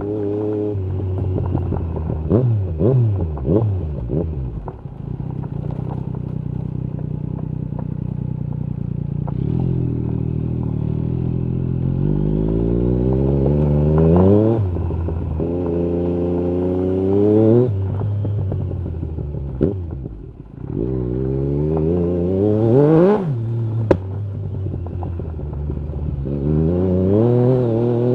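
Yamaha MT-09 SP three-cylinder engine through an Akrapovic carbon exhaust, accelerating hard several times with its pitch rising through each gear and dropping sharply at every upshift. There are quick throttle blips near the start and a few sharp cracks from the exhaust.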